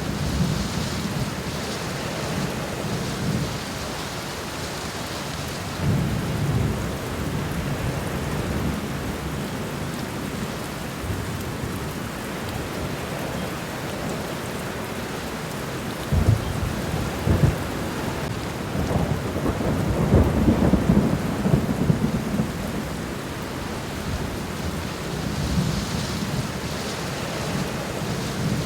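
Steady rain falling on a garden floor, with low rumbles swelling several times and two sharp low thumps just past the middle; the loudest rumble comes about two-thirds of the way through.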